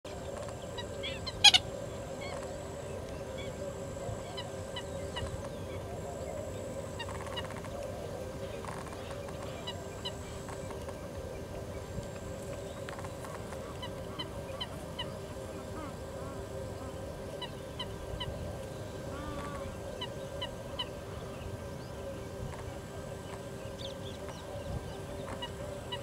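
Short, high bird calls in small groups over a steady low drone, with one sharp click about a second and a half in.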